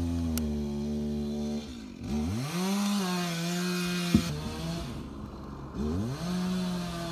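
Chainsaw engine running at high revs, its pitch dropping away and climbing back up twice, with a hiss of cutting between about two and four seconds in and a sharp click just after.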